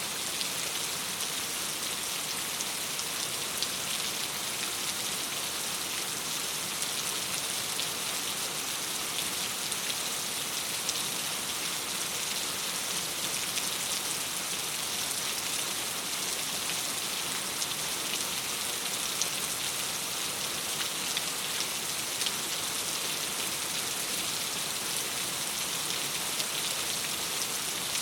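Steady rain falling against a window pane, an even hiss with a few light ticks of single drops.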